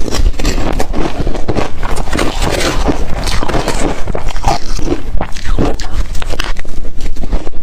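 Ice being bitten and chewed close to the microphone: a dense, irregular run of loud crunching and cracking.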